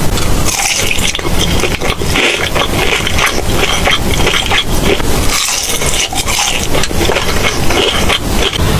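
Close-miked eating: loud chewing and crunching of food, a dense run of crackles and smacks.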